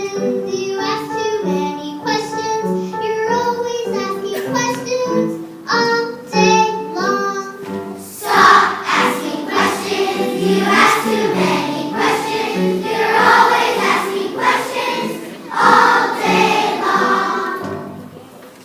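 A group of children singing together, a choir-style song with sung notes; the singing grows fuller and louder about halfway through and fades out near the end.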